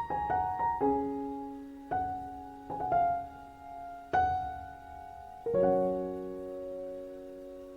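Background piano music: a slow run of single notes and chords, ending on a held chord that fades out.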